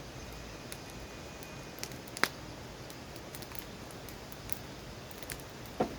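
Wood campfire crackling: scattered small pops and clicks over a faint steady hiss, with two sharper snaps about two seconds in and near the end.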